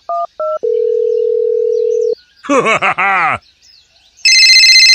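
Telephone keypad tones as a number is dialled, followed by a steady single-pitch phone tone for about a second and a half. A brief high-pitched cartoon voice chatters, then a loud electronic phone ring starts near the end.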